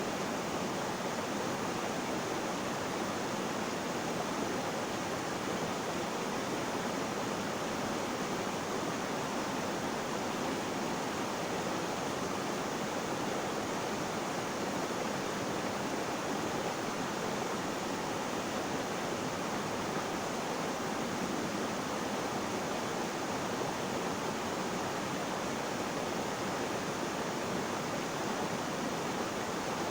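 Flowing water rushing steadily: an even, unbroken hiss of water with no drips, splashes or changes.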